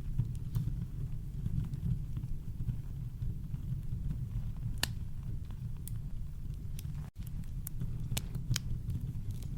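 Campfire crackling, with scattered sharp pops and snaps over a steady deep rumble of brown noise. The sound cuts out for an instant about two-thirds of the way through.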